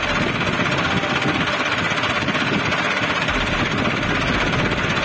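Diesel tractor engine running steadily at idle with a fast, even knock.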